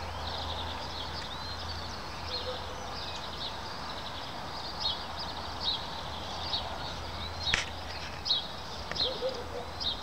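Small songbirds chirping and singing in short, irregular phrases, over a steady low background rumble, with one sharp click about seven and a half seconds in.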